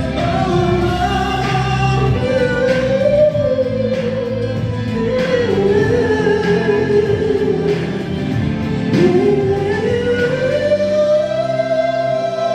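Male ballad singer holding long, high sung notes over a backing track, the melody sliding down about nine seconds in and then climbing to a high held note.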